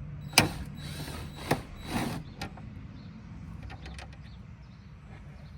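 Sharp clicks and a brief metallic rattle of a hand tool and small loose parts being handled during dashboard work. The loudest click is just under half a second in, then a second click and a short scraping rattle follow, with faint ticks later, over a steady low hum.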